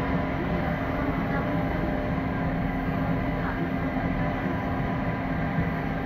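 Electric commuter train running at speed, heard from inside the carriage: a steady rumble of wheels and running noise with a steady low hum underneath.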